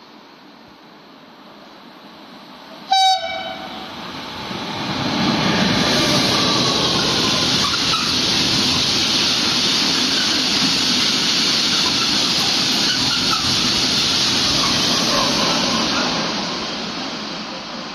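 A freight train's locomotive horn gives one short blast about three seconds in. Then the locomotives and a long rake of hopper wagons pass close by at speed with a steady noise of wheels on rails, which fades near the end.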